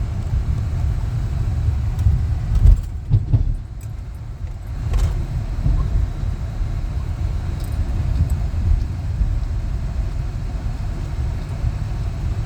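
Vehicle driving with a steady low rumble of engine and road noise. Around three seconds in come a few louder knocks and rattles, followed by a brief quieter stretch.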